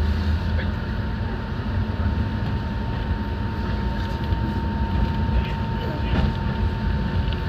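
Enoden electric train heard from inside the car: a steady low rumble with a thin constant whine and a few faint clicks.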